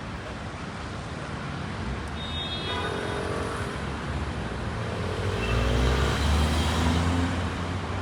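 City street traffic with a motor vehicle passing close, its engine rumble building and peaking about two thirds of the way through.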